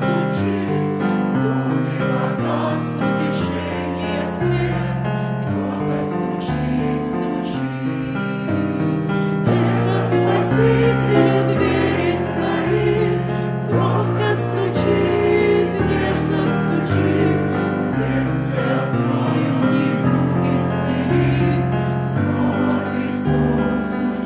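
Christian hymn sung by a choir with keyboard or piano accompaniment, sustained chords over a steadily moving bass line.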